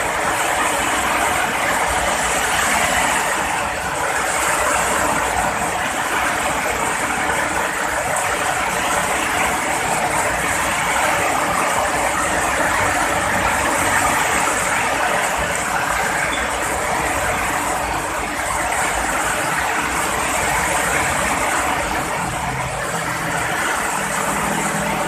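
Heavy rain pouring down, a steady, even hiss with no breaks.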